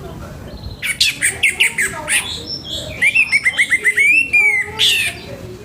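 Orange-headed thrush (anis merah) singing a full, loud song. About a second in comes a burst of rapid sharp notes, then a fast run of repeated notes that ends in clear whistles.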